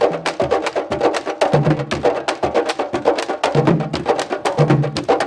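Candombe drumming: a group of hand drums played with one hand and one stick, a fast steady clatter of stick strokes on the wooden shells over deep pitched drum tones that come back about once a second.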